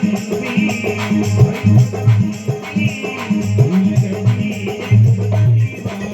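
Marwari bhajan music with no sung words: rattling hand percussion over a steady low drone, with a wavering melody line above.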